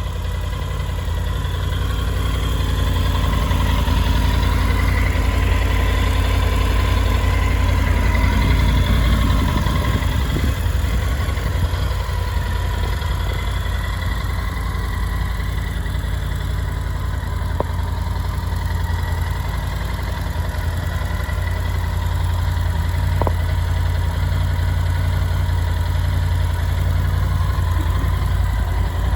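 Triumph Tiger 850 Sport's 888 cc inline three-cylinder engine idling steadily.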